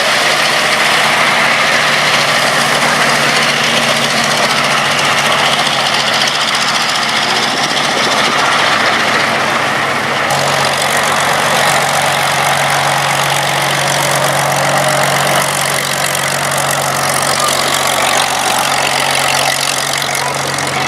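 Vintage piston aero engines running steadily, a loud even drone with a low hum. The sound shifts abruptly about ten seconds in.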